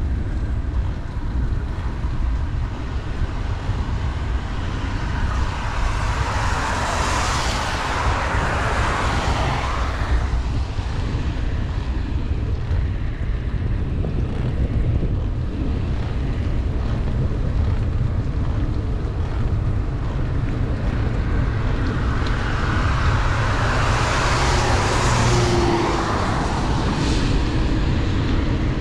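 Steady wind buffeting the microphone while cycling in heavy rain, with two cars passing, about seven seconds in and again near the end. Each swells and fades over a few seconds as its tyres hiss on the wet road.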